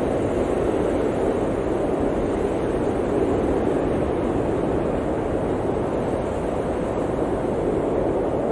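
Steady blizzard wind blowing hard, a dense, low, even rush of noise with no gusts or breaks.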